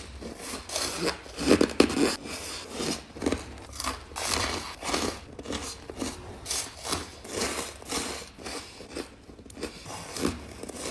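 Ice being crunched and chewed close to the microphone, in a steady run of crisp crunches about two or three a second.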